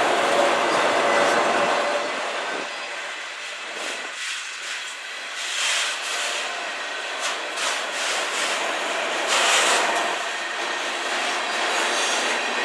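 Freight train cars rolling past close by: the steady rattle and clatter of steel wheels on rail, with a few sharper, high-pitched moments from the wheels.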